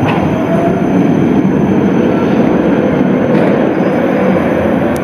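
Tram running past, a steady rumble of wheels on rails with a faint whine.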